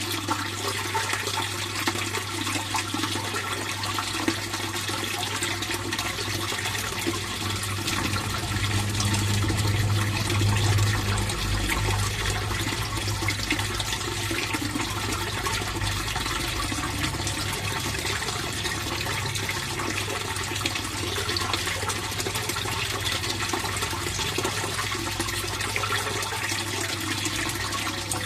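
Water flowing and splashing steadily in a fish pond, swelling a little louder about nine to twelve seconds in.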